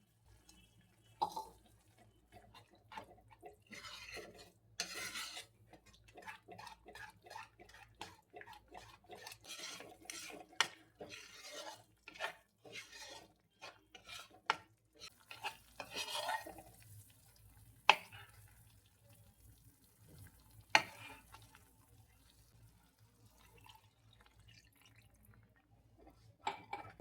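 Quiet kitchen work: scattered clinks and knocks of utensils and dishes being handled, with a few brief swishing, watery noises. There are sharper single knocks at about 18 and 21 seconds.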